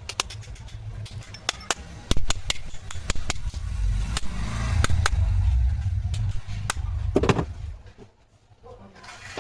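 Irregular sharp clicks and knocks of metal tool work on a marble cutter's parts during an armature change, over a low rumble that fades out near the end.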